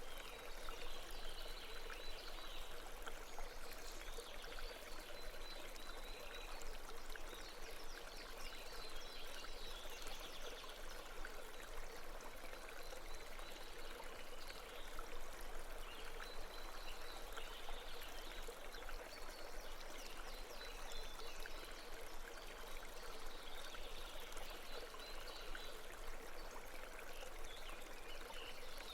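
Babbling brook: a steady rush and trickle of running water.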